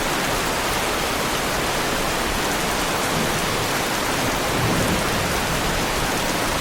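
Heavy rain pattering steadily on a car's body, a Lamborghini Huracan, in an even hiss of many drops. A brief low swell comes about three-quarters of the way through.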